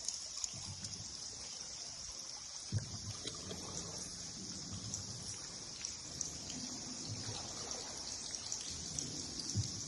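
Water trickling and dripping inside a river cave, over a steady high hiss with scattered faint clicks.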